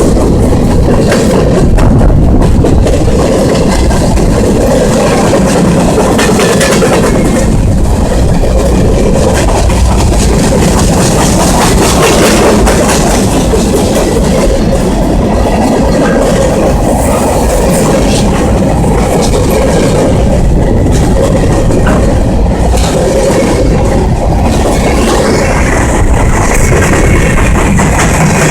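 Canadian National freight train's cars rolling steadily past, loud, with wheels clacking over the rail joints.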